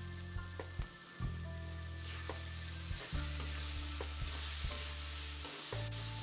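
Potatoes and soya chunks frying in hot oil in an iron kadai, sizzling steadily as a metal spatula stirs and scrapes them, with frequent short clicks of the spatula against the pan. Background music plays underneath.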